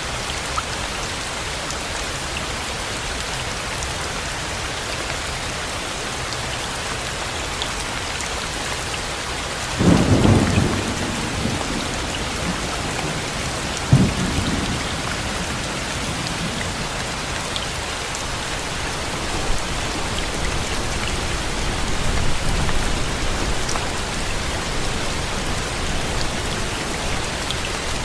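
Steady heavy rain with thunder: a low clap of thunder about a third of the way in, a sharper crack a few seconds later, and a low rumble later on.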